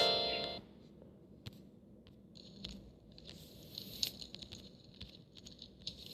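A bright chime fades out in the first half second, then soft crackling and squishing slime sounds with scattered clicks from a slime-making simulator game.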